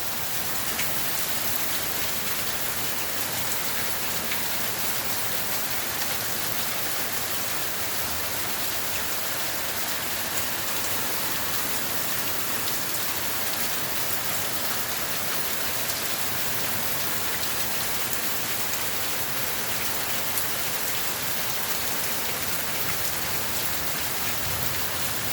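Hard rain pouring down steadily in a dense, even hiss, with a few individual drops ticking out above it.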